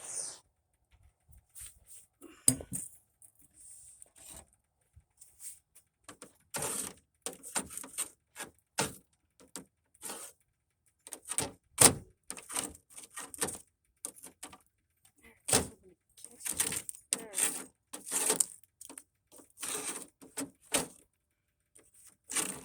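Irregular clatter of short knocks, clicks and scrapes: ice being broken and scraped off a backhoe control-panel cover by hand. The sharpest knock comes about twelve seconds in.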